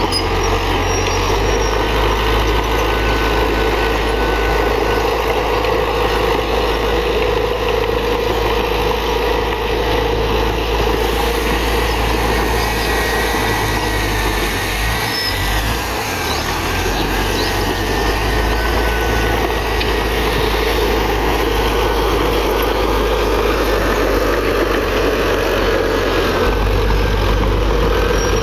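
Heavy diesel earthmoving machinery, a bulldozer or dump truck, running steadily at working speed for the whole stretch, with a slight easing about halfway through.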